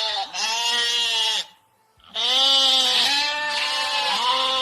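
A farm animal sound effect: a run of pitched calls, each about half a second to a second long, separated by short pauses.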